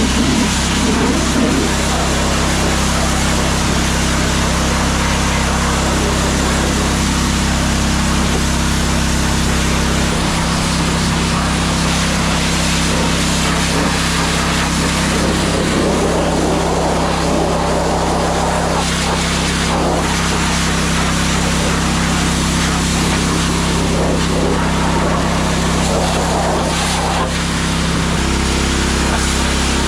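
Steam pressure washer running: a steady machine hum under the even hiss of the water spray. About 28 s in, the hum shifts to a slightly different tone.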